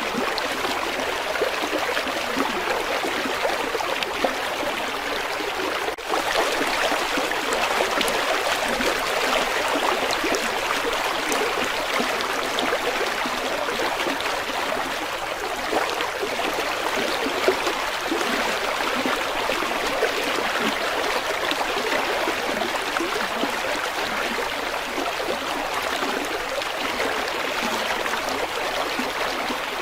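River water flowing steadily, an even rushing sound with no pauses.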